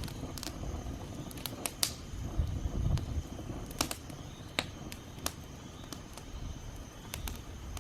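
Campfire of thin dry twigs crackling, with irregular sharp snaps and pops as the fresh kindling catches. A low rumble swells briefly about three seconds in.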